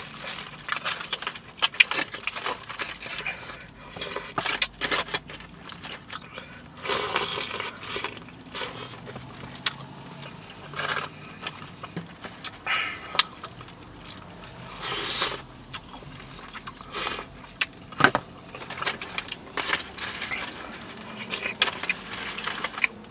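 Close-up eating sounds: chewing, with irregular clicks, clinks and scrapes of shells and utensils on the plate.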